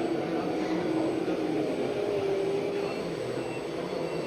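Radio-controlled scale model trucks and tractors running, giving a steady mechanical whine that wavers a little in pitch over a hiss.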